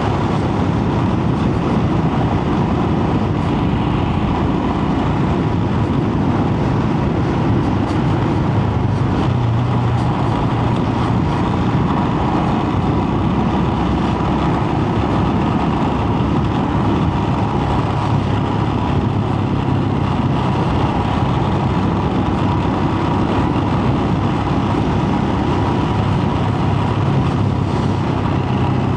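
Royal Enfield Himalayan's single-cylinder engine running at a steady riding speed, mixed with constant wind rush, with no change in pace.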